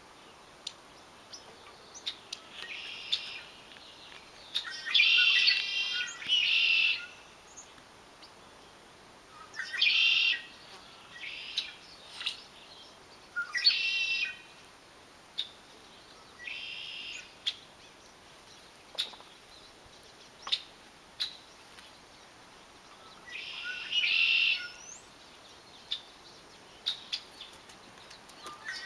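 Birds singing in short, fast-trilled phrases of about a second each, roughly seven of them, with scattered single sharp chirps in between.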